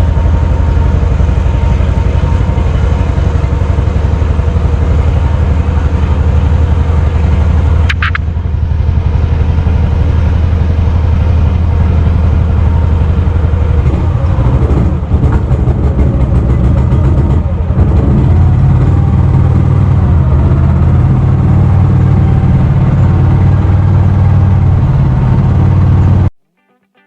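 Mokai motorized kayak's small gas engine and jet drive running steadily under way, with a brief high tone about eight seconds in. The sound cuts off suddenly near the end.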